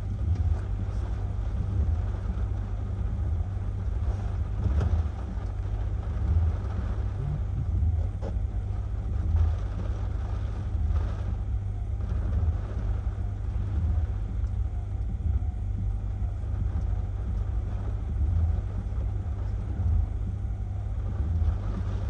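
Hurricane winds gusting against the microphone: a heavy, uneven rumble that swells and eases every second or so over strong sustained wind.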